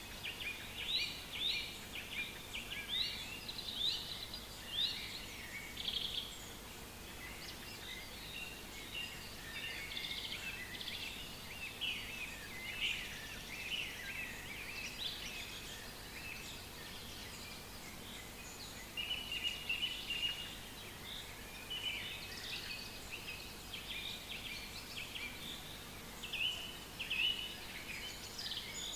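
Several songbirds singing and calling at once in a forest: a busy chorus of short chirps and quick trills, over a faint steady hiss.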